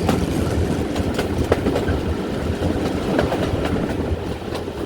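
Steam-hauled passenger train running along the track, a steady rumble of wheels on rails with occasional clicks from the rail joints.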